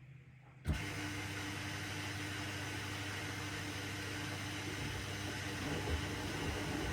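Front-loading washing machine (AEG LR8FL160EX) switches on a new stage abruptly about a second in, then runs with a steady hiss over a low hum.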